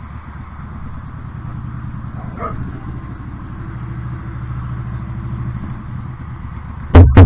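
Motorcycle engine running steadily, then three very loud sharp bursts in quick succession near the end.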